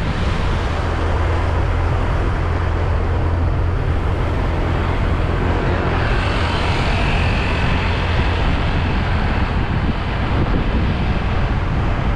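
Motorbike riding along a road: steady engine and road noise with a heavy low wind rumble on the camera microphone.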